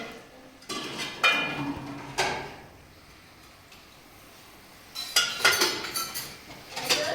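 Sharp clinks and knocks of hard objects being handled, in two clusters: one over the first two seconds and a denser one near the end, with a quiet stretch between.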